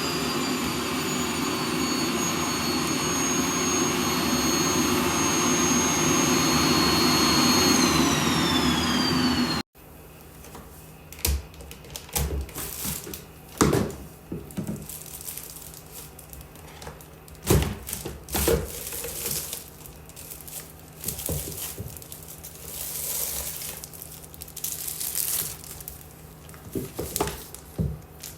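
Vacuum cleaner running with a steady rushing noise and a high motor whine that drops in pitch, then cuts off abruptly about ten seconds in. It is followed by quieter, irregular clicks, knocks and crinkling, like plastic being handled.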